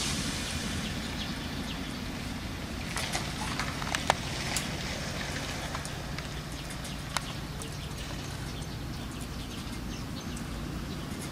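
Short high chirps and ticks from small birds in the tree, over a steady low rumble. A few sharp clicks stand out, the loudest about four seconds in and another about seven seconds in.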